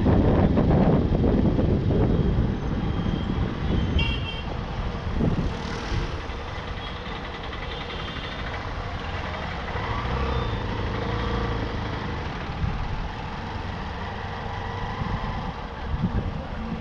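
Town street traffic heard from a moving motorcycle: loud wind and road rumble over the first couple of seconds, then a steadier mix of engines and passing vehicles, with a brief high beep about four seconds in.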